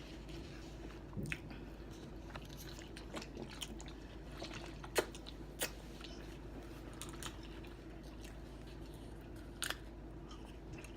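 Close-miked chewing and biting of a sub sandwich: wet mouth sounds with scattered sharp clicks and crunches, over a faint steady hum.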